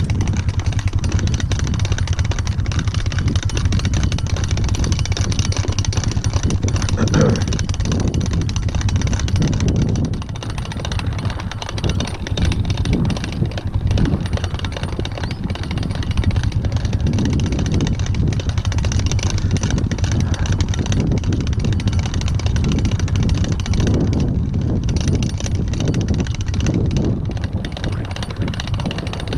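Hand-cranked, non-geared electric fence reel being wound in, a continuous fast clicking rattle as the polywire is reeled up, over a steady low rumble.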